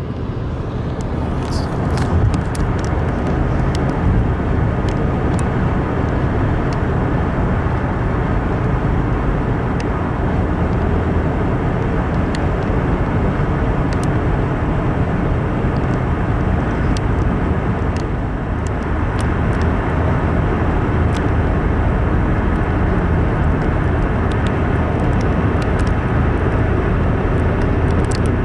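A train rolling past with a steady low rumble, scattered sharp clicks and clanks over it, until it cuts off abruptly at the end.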